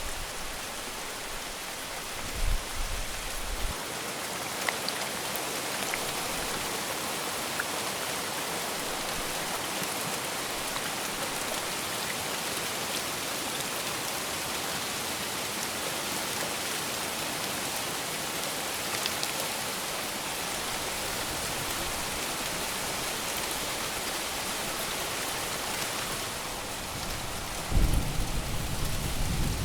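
Steady heavy rain, an even hiss of drops falling on surfaces. A short low rumble of thunder comes about two and a half seconds in, and a louder one near the end.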